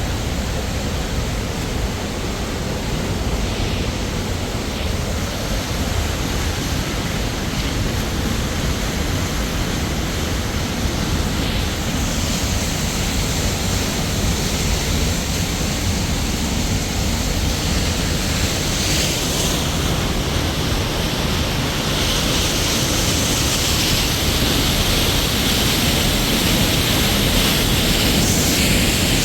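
Steady, loud rushing noise with no distinct events, heaviest in the low end, growing somewhat louder and hissier over the second half.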